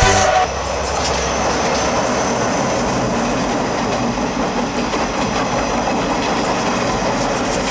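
A passenger train hauled by a diesel locomotive rolling across a steel girder bridge, its wheels clattering steadily over the rails.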